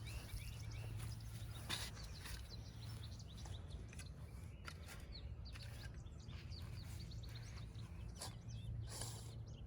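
Faint outdoor ambience: small birds chirping on and off, over a low steady hum.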